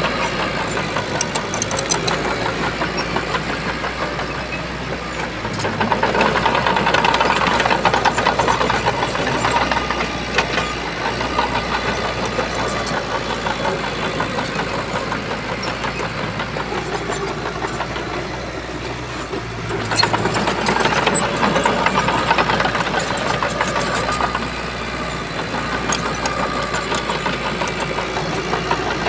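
Heavy bulldozer diesel engine running steadily. It swells louder for a few seconds about six seconds in, and again about twenty seconds in.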